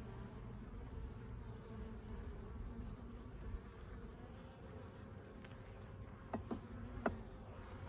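Swarm of honeybees buzzing around an open hive in a steady hum. A few short knocks near the end.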